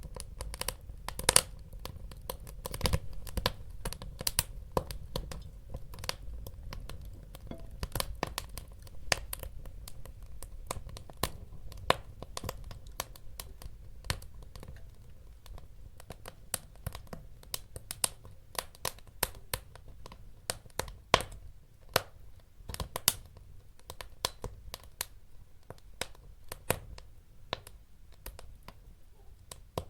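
Wood fire crackling in a fireplace: irregular sharp pops and snaps, several a second at times, over a low steady rumble.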